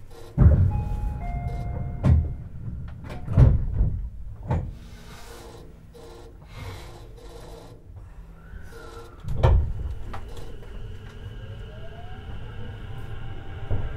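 Tobu 50090 series electric train stopped at a station: several heavy thuds, the last and loudest about nine and a half seconds in, as the doors work. After that the traction motors begin a rising whine as the train starts to pull away.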